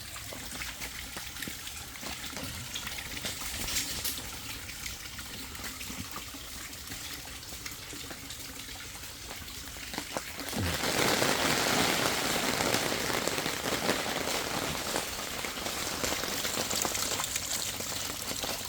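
Steady splashing water noise at a koi pond, growing clearly louder about ten and a half seconds in.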